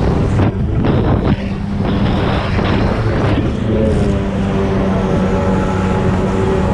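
1995 Sea-Doo SP jet ski's two-stroke engine running at a steady pitch while under way, mixed with rushing water and wind on the microphone. A few short knocks or splashes come in the first couple of seconds, as the hull meets small waves.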